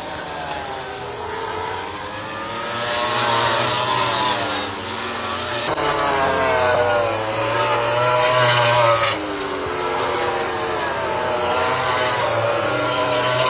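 MotoGP racing motorcycles' four-cylinder engines revving up and down on track, several bikes at once with their pitch rising and falling through the gears. The sound changes abruptly about six and nine seconds in.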